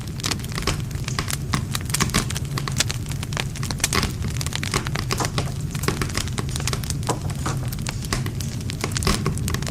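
Wood campfire crackling and popping: many quick, irregular snaps of burning wood over a steady low rumble of the flames.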